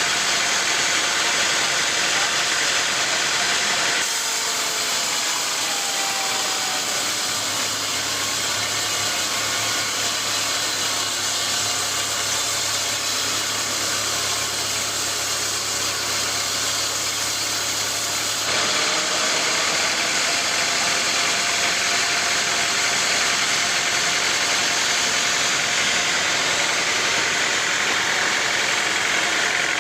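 Sawmill machinery running with a steady, loud mechanical noise. The tone changes abruptly about four seconds in, with a low hum added, and changes back a little past halfway.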